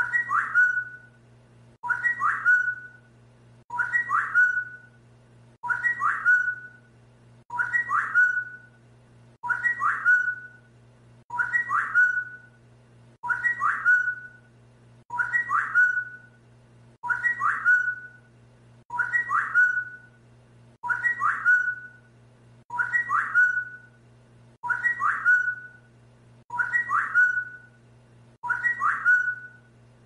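A short whistled phrase repeated identically about every two seconds, a looped training whistle for teaching a talking parrot such as an African grey to copy it. A steady low hum runs underneath.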